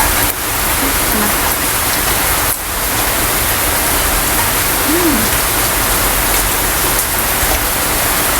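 Steady rushing noise of storm wind and rain, with a constant low rumble from the wind.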